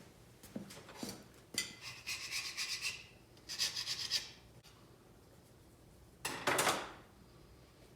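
Scraping or filing strokes on a metal lathe part, in three passes: a long one of about a second and a half starting between one and two seconds in, a shorter one at about three and a half seconds, and the loudest, short one at about six and a half seconds. A few light clicks come before the first pass.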